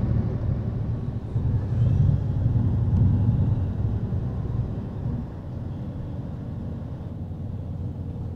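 Semi-truck cab interior while driving: a steady low rumble of engine and road noise. It drops slightly in level about five seconds in.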